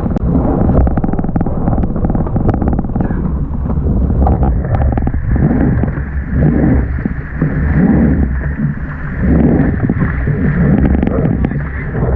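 Wind buffeting a small action-camera microphone on a Tornado catamaran sailing fast in strong wind, over the rush and slap of water along the hulls. About four seconds in, a steady high whistle joins.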